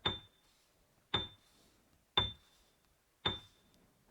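A tick sound effect repeating about once a second, four times: each a sharp click with a short high ring, counting out the pause left for the learner to repeat the word.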